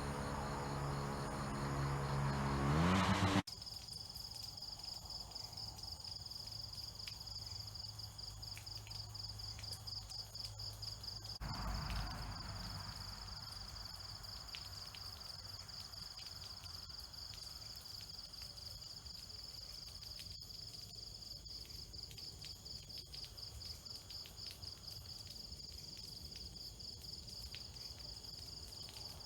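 A motor with a rising hum for the first three seconds or so, cut off abruptly. Then an insect chirring, a steady high buzz with fast, even pulsing, with a brief low rumble about twelve seconds in.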